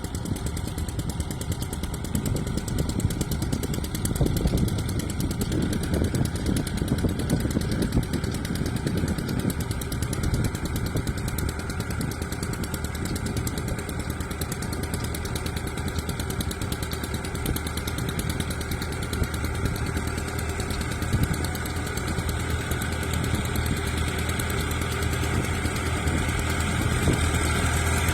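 Fiat 480 tractor's three-cylinder diesel engine running steadily, with a low hum that grows stronger in the second half.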